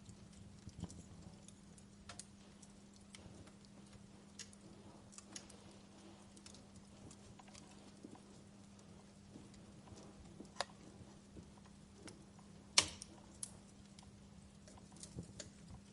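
Wood fire crackling: irregular sharp pops and snaps, mostly faint, with one much louder snap near the end. A faint steady low hum runs underneath.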